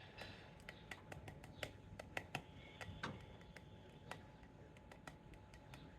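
Great spotted woodpecker pecking at peanuts in a birdfeeder: irregular, quick sharp taps, thickest in the first four seconds and sparser after.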